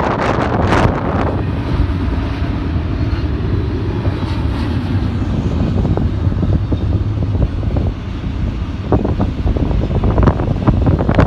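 Strong wind buffeting the microphone, with the low rumble of a passing freight train underneath.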